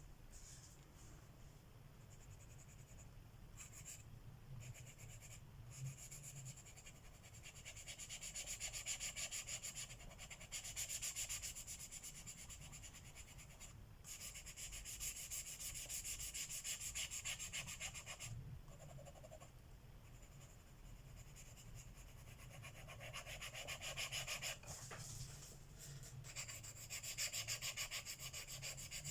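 Colored pencil shading on paper: rapid back-and-forth scratchy strokes in runs of a few seconds, with short pauses between.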